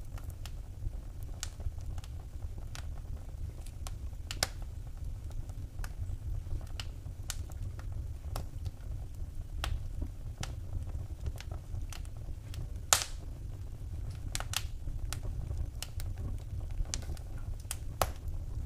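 Wood fire in a fireplace crackling: irregular sharp pops and snaps over a steady low rumble, with one louder pop about two-thirds of the way through.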